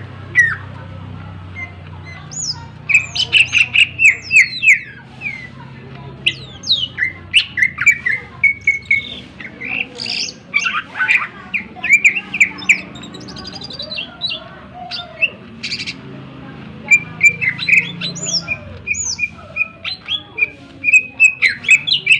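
Greater green leafbird (cucak ijo) singing a loud, varied song of sharp chirps and quick whistled glides, in rapid runs broken by short pauses. The song is full of mimicked calls.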